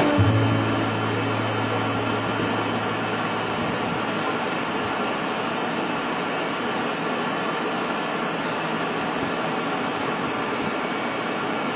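Steady hum and hiss of a stopped electric commuter train's ventilation and auxiliary equipment, with a lower tone in the first few seconds that then fades out.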